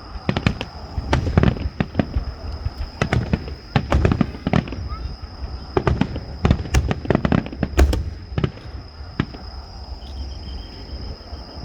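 Fireworks going off in a rapid volley of deep booms and sharp cracks, which thins out and stops about nine seconds in.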